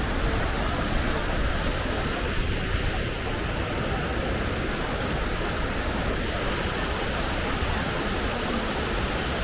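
Steady rush of water pouring down the reservoir spillway waterfalls, with no let-up.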